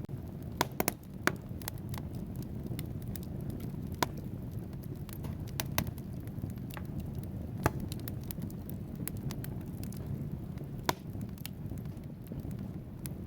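Wood fire burning in a fireplace: a steady low rumble of flames with scattered sharp crackles and pops from the logs, a quick cluster of pops about a second in and single loud pops every few seconds.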